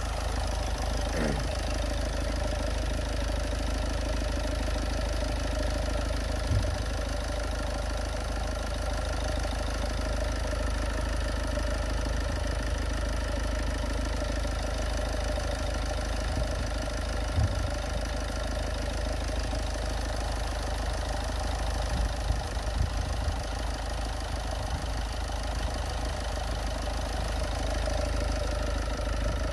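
Kia 1.6 CRDi D4FB four-cylinder common-rail diesel engine idling steadily, with a few brief low knocks now and then.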